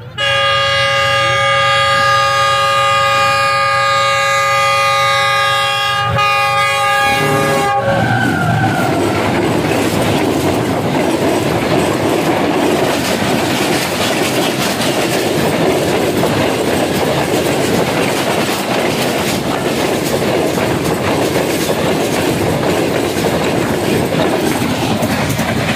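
A Pakistan Railways diesel locomotive sounds one long chord-like horn blast for about eight seconds as it approaches. After that its passenger coaches run past close by, their wheels clattering steadily over the rail joints.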